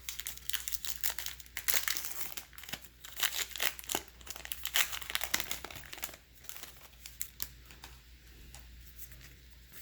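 A baseball card pack's wrapper being torn open and crinkled: a dense run of irregular crackles for about six seconds, thinning to scattered light ticks near the end.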